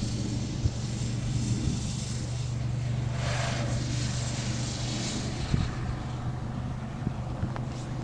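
Jet airliner engines giving a steady low rumble with a hiss above it. The hiss swells briefly about three seconds in.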